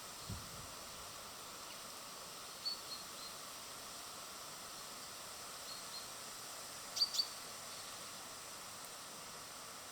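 Small birds at a feeder giving short high chirps over a steady outdoor hiss, a few scattered through and the loudest pair about seven seconds in. A soft low thump comes just after the start.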